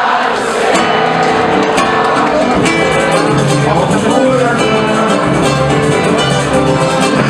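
Samba ensemble playing an instrumental passage: plucked guitars and cavaquinho over a steady pandeiro and percussion beat.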